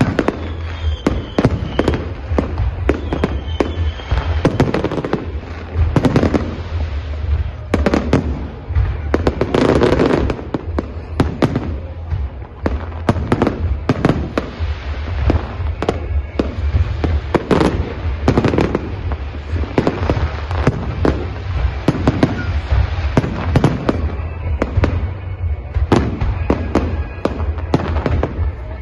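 Professional display fireworks, Chinese-made aerial shells, going off in a dense, continuous barrage: many sharp bangs a second over a steady low rumble, heaviest about ten seconds in.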